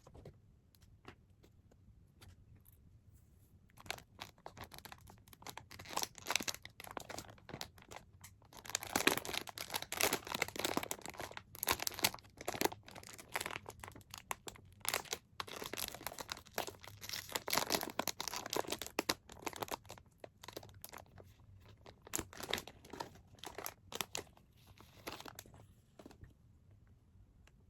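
Packaging being torn open and crinkled by hand: irregular spurts of rustling and tearing with short pauses, fading out near the end.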